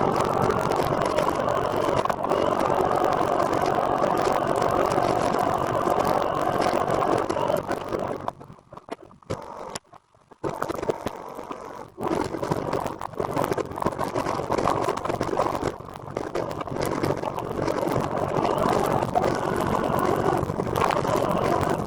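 Steady rushing road and wind noise while riding, dropping away almost to quiet for about four seconds midway and then coming back.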